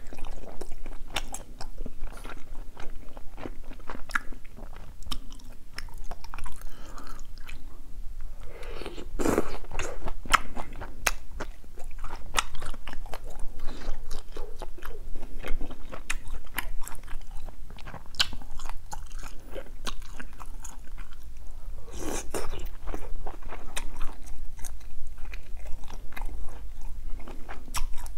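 Close-miked chewing and biting of mouthfuls of spicy beef-intestine stew, with many quick wet mouth clicks. It gets louder twice, about a third of the way in and again about three-quarters of the way through.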